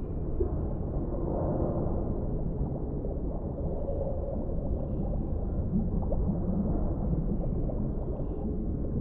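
Underwater ambience: a steady, muffled low rumble of deep water with nothing high above it, swelling slightly about a second and a half in.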